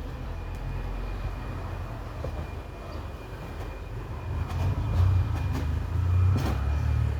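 A low steady rumble that grows louder in the second half, with a thin steady high whine and a few light clicks near the end.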